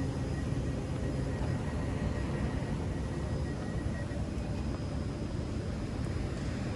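Class 331 electric multiple unit pulling out of the station, a steady low rumble with a faint high whine for the first few seconds.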